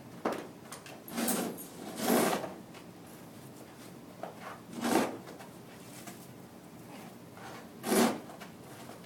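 Five short scraping or rustling noises at irregular intervals, the loudest about two seconds in and again near the end.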